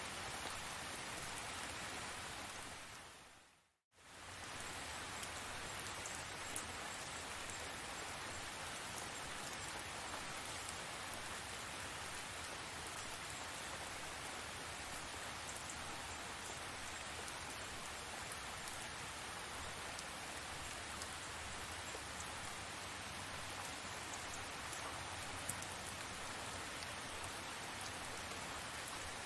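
Steady rain falling, a dense even hiss with scattered drop ticks. It fades out to silence and straight back in about four seconds in.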